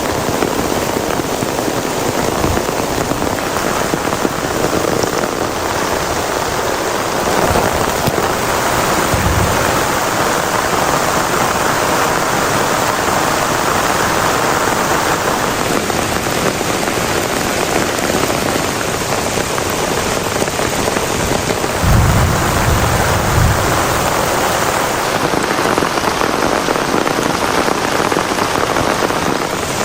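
Heavy rain pouring steadily. Brief low rumbles come about a third of the way in and again a little past two-thirds.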